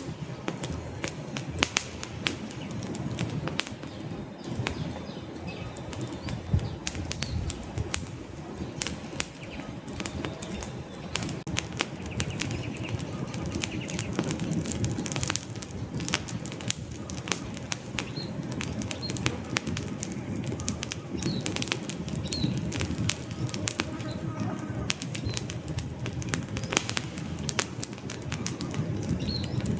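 Wood fire burning in a fireplace: irregular crackling and popping of the logs over a low, steady rush of flames.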